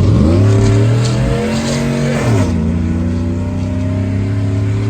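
V8 engine with long tube headers accelerating hard: the exhaust note climbs quickly, holds high, drops about halfway through, then holds steady at a lower pitch.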